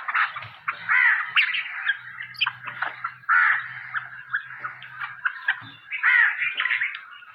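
Hungry nightingales begging for food: a continuous run of short, overlapping chirping calls, several at a time.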